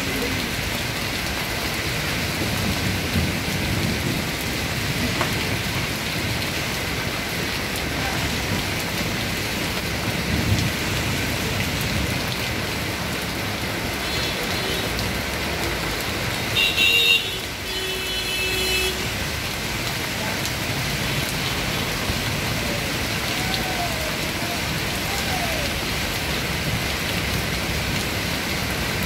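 Heavy rain pours steadily onto a flooded street with standing and running water. About two-thirds of the way through, a high beeping tone sounds in short pulses for a couple of seconds.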